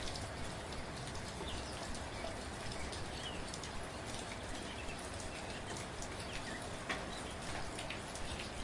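Steady gentle rain, with individual drops ticking close by over an even hiss of rainfall. A few faint, short bird chirps come through now and then.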